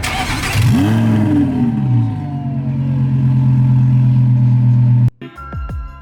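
Car engine revved once, the pitch rising and falling within about a second, then settling into a steady idle; it cuts off abruptly about five seconds in.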